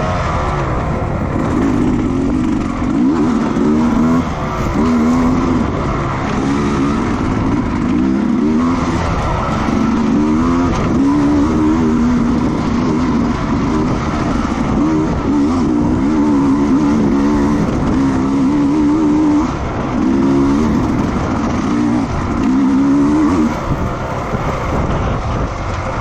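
Racing motorcycle engines running at high revs, the pitch climbing and dropping again and again.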